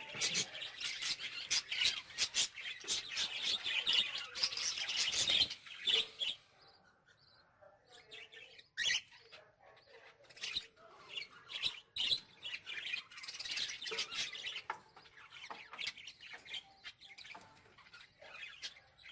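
Many caged budgerigars and cockatiels chirping and chattering together, dense for the first six seconds, then thinning to scattered chirps with a busier burst later on.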